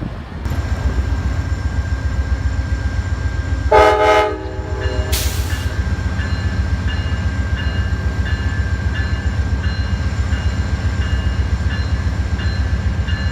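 Diesel locomotive running with a steady low rumble, sounding one short horn blast about four seconds in, followed by a brief hiss of air. A bell rings at a steady beat behind it.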